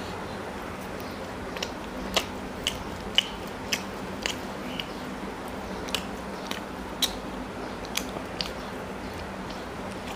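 Close-miked mouth sounds of a man chewing paratha and chicken curry with his mouth open: irregular wet smacks and clicks, roughly one or two a second, over a low steady hum.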